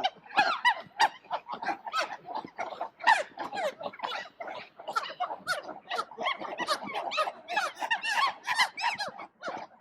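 Animal calls: a rapid run of short pitched calls, several a second, each rising and falling in pitch.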